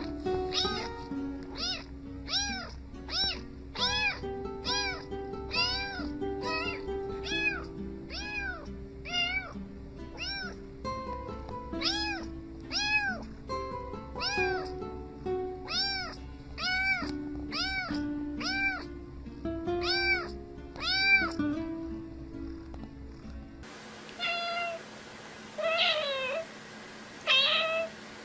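A cat meowing over and over, about two meows a second, over background music. Near the end the music stops abruptly and a cat meows four times on its own.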